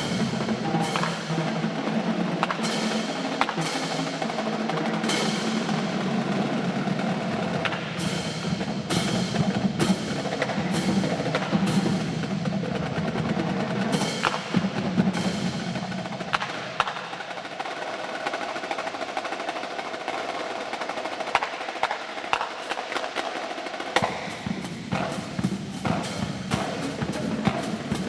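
Marching drum line playing a battle cadence: fast snare rolls and sharp accents over bass drums. The low drums drop back for several seconds past the middle and come back in near the end.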